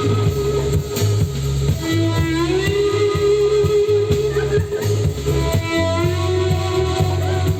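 Live psychedelic trance band: a lead guitar holds long notes that bend up in pitch twice, over a pulsing bass line and steady drums.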